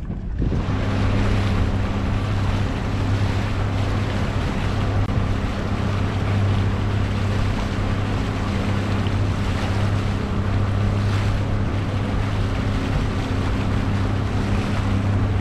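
A sailboat's inboard engine running steadily at low revs with a constant low hum, under wind noise on the microphone.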